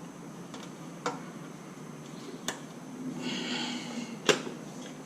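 A few sharp metallic clicks and knocks from hand tools at work on a spark plug, with a brief scrape just before the loudest click near the end.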